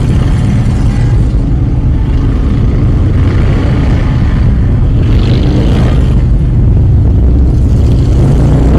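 A group of motorcycle engines running loudly with a steady low rumble, rising briefly in pitch a few times as they rev.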